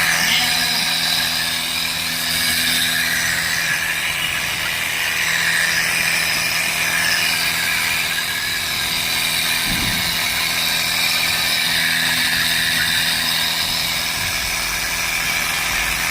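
Small engine of a motorized pressure sprayer running steadily, with the steady hiss of its high-pressure spray jet.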